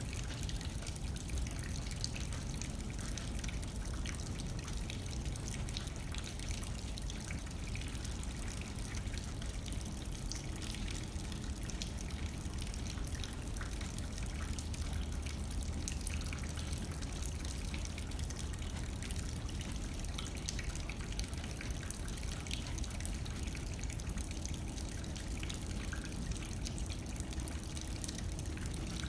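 Steady rain striking a windowpane, many small drop ticks over a continuous low rush of light wind.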